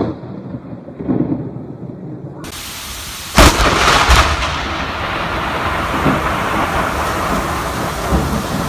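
Thunder from a close lightning strike: a low rumble, then a sudden sharp crack about three and a half seconds in and a second crack just after, going on into a steady rumble with rain hissing.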